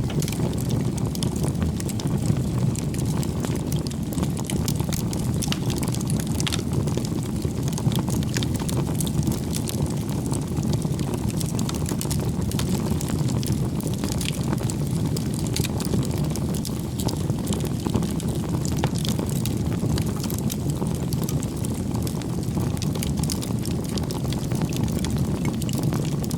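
Wood fire burning: a steady low rush of flames with frequent small crackles and pops from the burning firewood.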